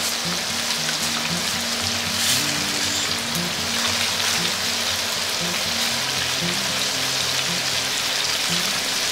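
Chicken and vegetables sizzling steadily in oil in a frying pan as they stir-fry.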